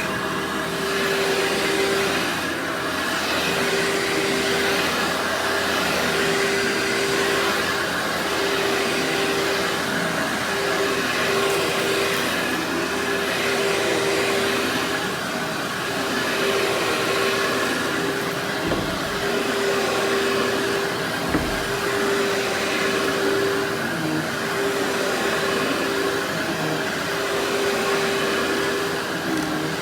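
Workhorse vacuum cleaner running steadily: a constant motor whine over a rush of suction air, with the airflow changing every second or two as it is worked. Two brief low thumps come about two-thirds of the way through.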